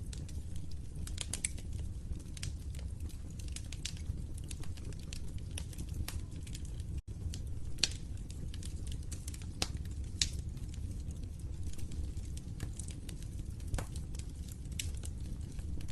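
Wood fire in a fireplace crackling: irregular sharp pops and snaps over a steady low rumble of burning logs, with a split-second dropout about seven seconds in.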